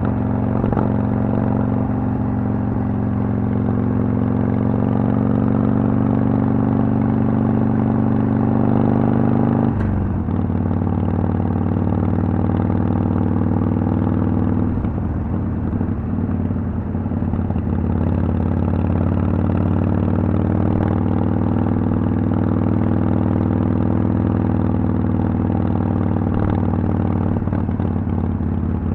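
Harley-Davidson Sportster XL883L's air-cooled 883 cc V-twin running through Vance & Hines Twin Slash exhaust. The revs climb gently, then drop suddenly about ten seconds in and hold steady.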